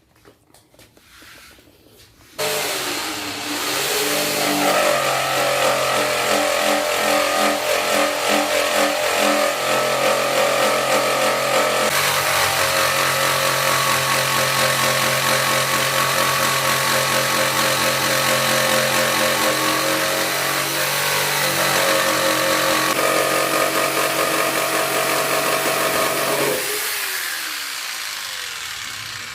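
Electric jigsaw cutting lengthwise through a hard 2-by-10 plank. The motor starts about two seconds in and runs loud and steady, its pitch sagging and recovering as the blade labours in the dense wood, then winds down with a falling pitch near the end as the cut is finished.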